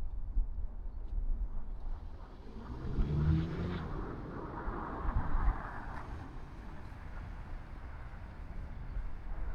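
A motor vehicle passing: a brief engine note about three seconds in, then tyre hiss that swells and fades, over steady low wind rumble on the microphone.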